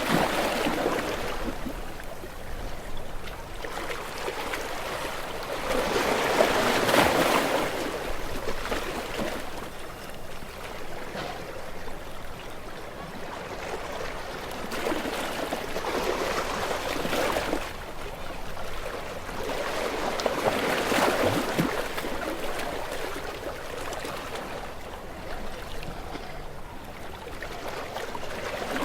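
Small waves breaking and washing up onto a shore, the sound swelling and falling back in slow surges every several seconds.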